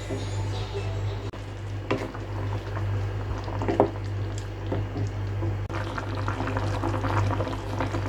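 Food cooking in a pan, bubbling and crackling, over a steady low hum, with a couple of short knocks; the crackling gets denser near the end.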